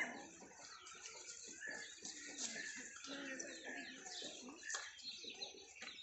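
Faint chorus of small birds chirping and calling, many short overlapping calls throughout.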